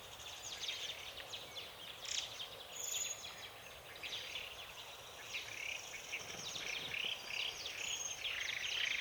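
Small forest birds chirping and calling, mostly quick high, falling notes. From about halfway through, one bird repeats a short note two or three times a second.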